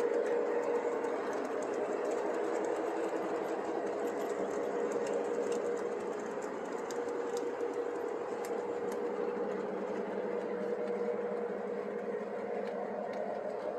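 Model train running on the layout: a steady electric motor whine with faint scattered clicks of the wheels on the track.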